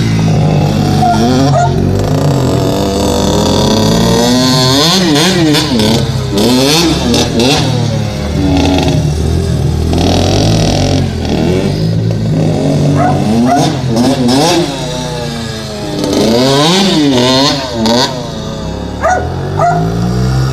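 Dirt bike engine running hard, its pitch repeatedly rising and falling as the throttle is opened and backed off.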